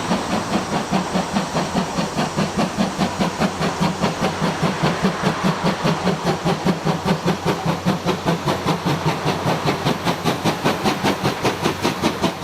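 C11 steam tank locomotive working under steam, its exhaust chuffing at an even pace of about four beats a second with steam hiss.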